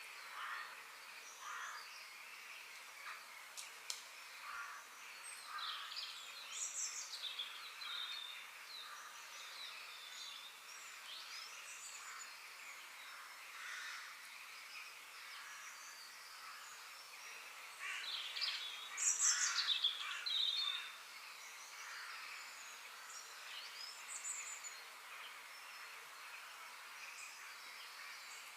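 Several birds chirping and calling over faint outdoor background noise: short chirps and quick sweeping calls, with a louder burst of song about two-thirds of the way through.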